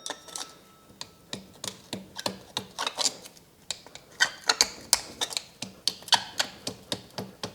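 A run of sharp metallic clicks, about three or four a second and unevenly spaced, from hand work on a disassembled Ural motorcycle engine whose crankshaft has play.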